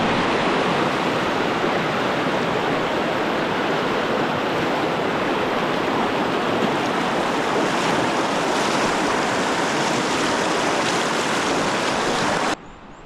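Steady, loud rush of a fast-flowing river, an even hiss of water that starts and stops abruptly.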